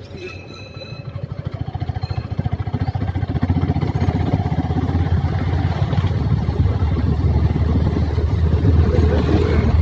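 Suzuki Gixxer SF 250's single-cylinder engine running under way, growing louder over the first three seconds or so and then holding steady.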